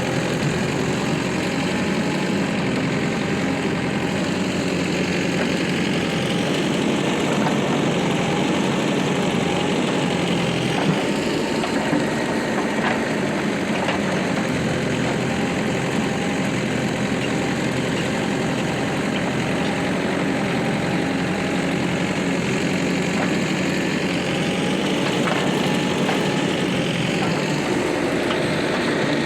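Heavy diesel machinery engine running steadily at a constant pace, with a couple of faint knocks about eleven and twelve seconds in.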